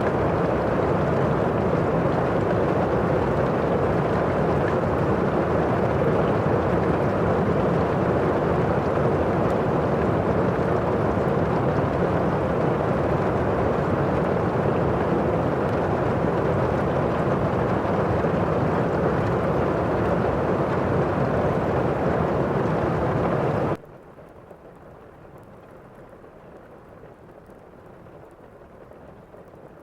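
Thunderstorm ambience: a loud, dense, low wash of rain and thunder that cuts off suddenly about three-quarters of the way through, leaving much quieter rain.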